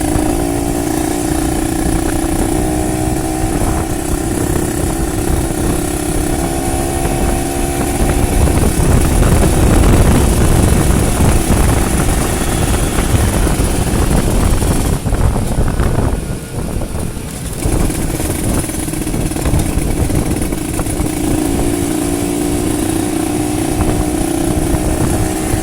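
Kawasaki Ninja 150 RR's two-stroke single running through an aftermarket exhaust while the bike is ridden at an easy pace. The note is steady, grows louder and rougher in the middle, then drops away briefly off the throttle a few seconds later before settling back to a steady run.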